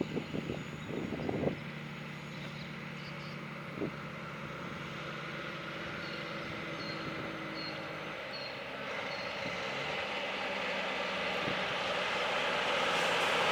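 Heavy truck approaching: its diesel engine drone and tyre noise grow steadily louder over the last several seconds. A few short knocks or gusts come in the first second and a half.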